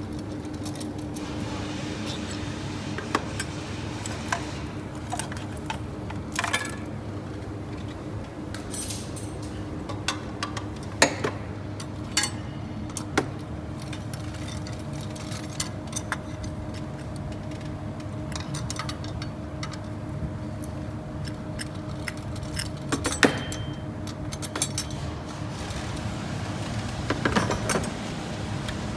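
Metal hand tools and engine parts clinking and tapping at irregular intervals, as in engine disassembly work, over a steady low hum.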